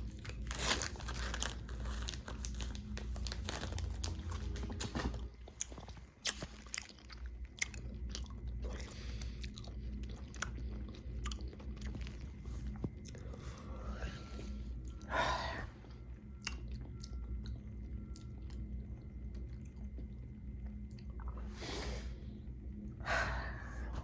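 A person biting and chewing crunchy chips close to the microphone, with many sharp crunches, over a steady low hum.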